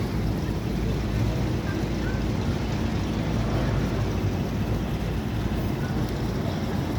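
A steady low vehicle rumble without breaks or changes.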